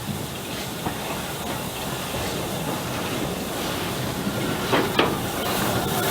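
Train approaching, its noise growing steadily louder, with a hiss and a few sharp wheel clicks, two close together about five seconds in.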